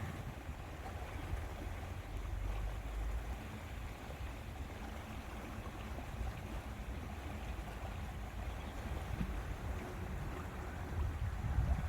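Lake water lapping against the shore with wind, a steady ambience heavy in low rumble.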